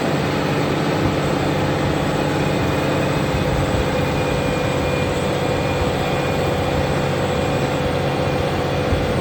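Large Fendt tractor's diesel engine running steadily under load while pulling a plough, a continuous drone with several steady tones over a noisy rumble. Right at the end the low rumble drops away.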